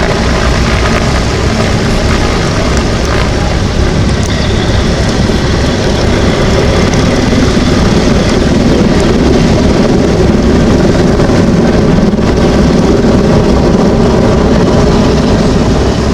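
Mil Mi-171Sh Hip helicopter's twin turbine engines and main rotor running loud and steady, swelling somewhat about halfway through.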